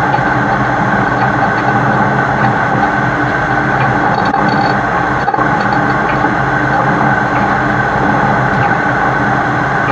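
Diesel engine of a heavy-haul truck pulling a super load, running steadily with a constant drone and several fixed tones, mixed with road noise, heard from a camera mounted on the truck's side.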